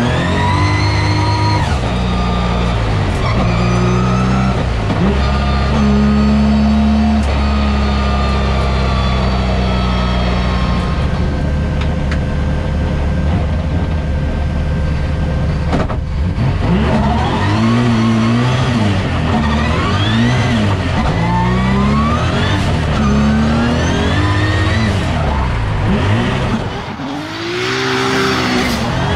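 Nissan VR38DETT twin-turbo 3.8-litre V6 in a drift car revving hard. The revs climb and drop over and over with throttle and shifts, hold steady for a few seconds in the middle, and the engine briefly gets quieter near the end before revving up again.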